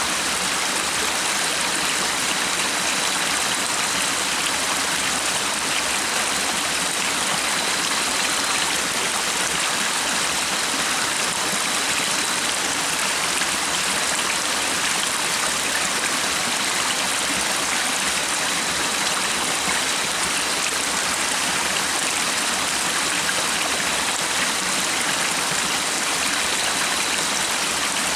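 A stream of running water flowing steadily, an even splashing and babbling that doesn't change.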